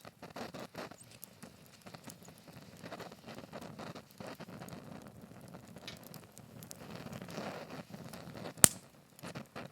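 Wood fire burning in a Picogrill 398 fire pit, crackling with many small pops and one loud, sharp pop near the end.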